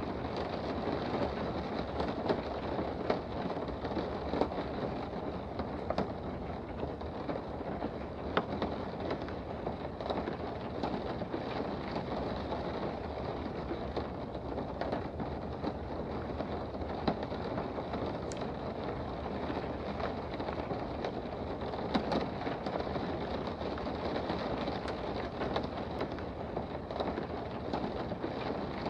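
Steady rain heard from indoors: a continuous hiss with scattered sharp ticks of drops striking nearby.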